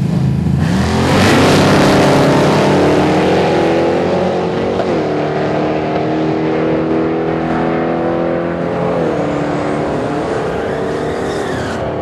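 Hot rod V8 engine revved up about a second in and held at high revs, dipping briefly twice, with the tyres spinning in a burnout.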